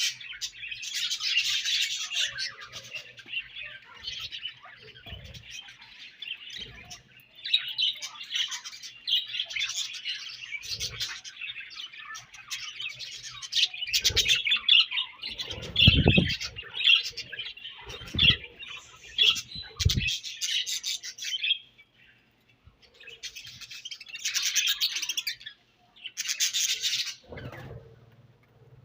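Budgerigars chattering and chirping continuously in a busy, warbling flock, with a few brief pauses. A few low thumps come about two thirds of the way through.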